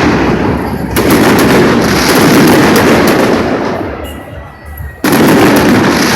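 Fireworks going off: heavy blasts about a second in and again about five seconds in, each followed by a dense crackling tail that fades over a few seconds.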